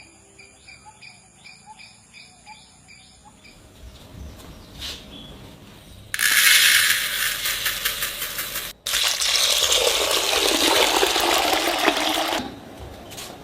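Water running or pouring hard for about six seconds, cut off abruptly once partway through, after a few seconds of faint, fast ticking.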